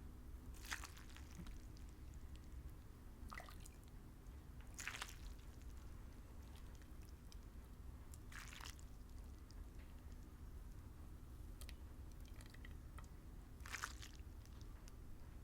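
Close-miked eating of noodles in broth: about five short wet slurps a few seconds apart, with quiet chewing and squishing in between.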